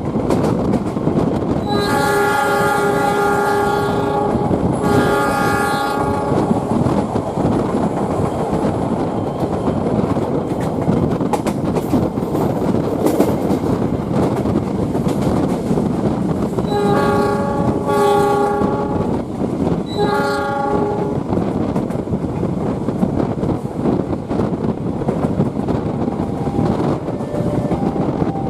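Train horn sounding two pairs of blasts, a longer one then a shorter one, about 2 seconds in and again about 17 seconds in. Under it runs the steady rumble and rattle of a passenger train moving on the rails.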